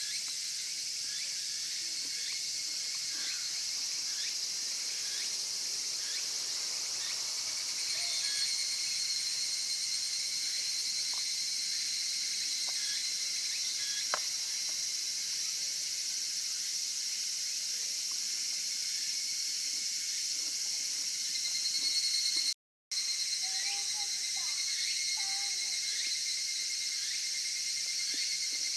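Outdoor insect chorus, crickets and similar insects trilling steadily in dense high-pitched layers. The sound cuts out for a moment about three quarters of the way through.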